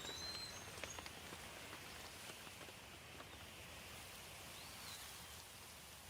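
Steady rain hiss with a few sharp drips early on, and a bird's short whistled chirp near the start and again near the end.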